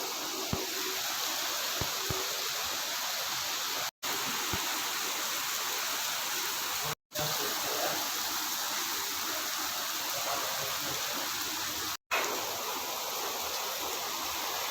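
Rain falling in a steady, even hiss, broken three times by a brief total silence where clips are joined.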